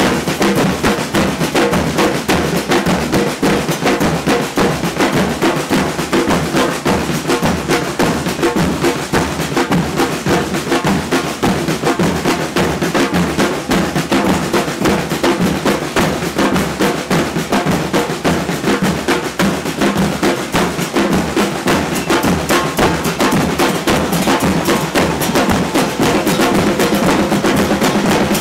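Murga carnival percussion band drumming, with bass drums and snare drums playing a fast, continuous beat.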